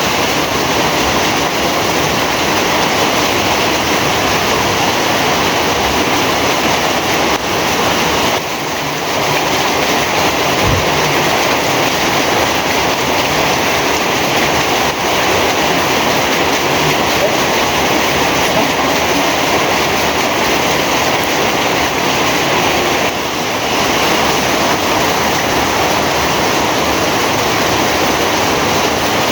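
Heavy rain falling in a steady, dense downpour, a loud even hiss with brief slight lulls about 8 and 23 seconds in.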